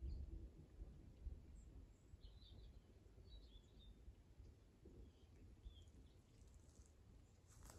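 Faint bird chirps, a handful of short high notes scattered across several seconds, over a low steady rumble.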